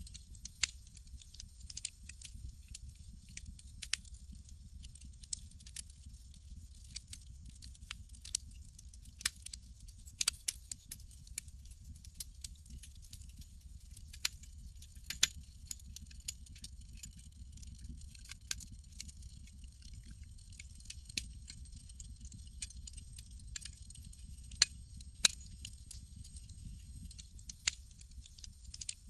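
Campfire crackling: irregular sharp pops and snaps, a few louder ones about ten and fifteen seconds in and near the end, over a low steady rumble.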